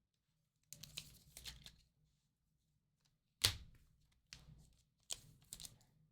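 Baseball cards being handled and flipped through: short clicks and slides of card stock in a few quick clusters, the sharpest tap about three and a half seconds in.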